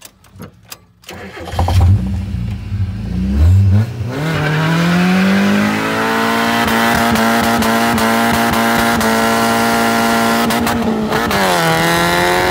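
Miata kart's four-cylinder engine revving up hard about a second and a half in, then held at high revs for about six seconds for a burnout, dipping briefly near the end before climbing again.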